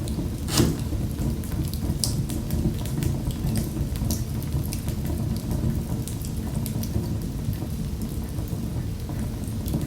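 Wood fire in a fireplace crackling: a steady low rumble of flames with scattered sharp pops and snaps, the loudest about half a second in.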